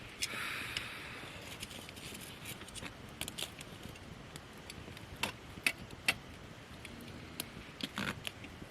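Wood campfire of gathered branches crackling, with irregular sharp pops and a brief hiss about half a second in.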